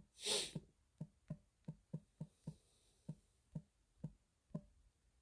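Faint run of about a dozen short, soft clicks at uneven intervals over four seconds, after a brief breathy whoosh near the start.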